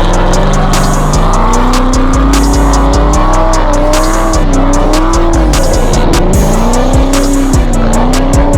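A drift car's engine revving up and down with tyres squealing, under background music with a steady beat.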